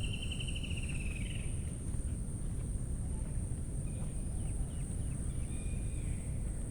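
Steady high-pitched insect drone of crickets or cicadas in a mangrove forest. A rapid trilling call fades out about a second and a half in, a few faint short chirps follow later, and a low rumble runs underneath.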